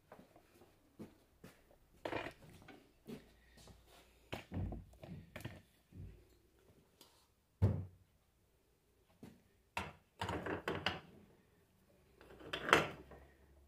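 Alternator parts and tools being handled on a workbench: scattered knocks and clunks with short spells of clatter, the loudest about eight seconds in and a louder run near the end.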